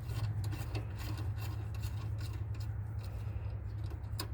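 A nut being turned with a hand wrench on the threaded parking-brake cable adjuster: a run of short, irregular scraping strokes of metal on metal. A steady low hum runs underneath.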